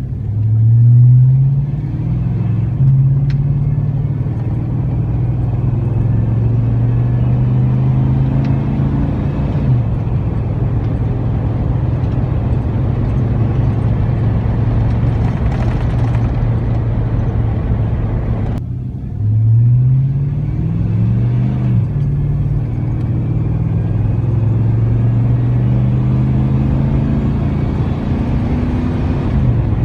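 5.3L LM7 V8 of a Chevrolet Silverado running through a Cherry Bomb straight-through muffler while the truck is driven. The exhaust note climbs in pitch under acceleration and drops back at gear changes near the start and again about two-thirds of the way in, holding steady at cruise in between.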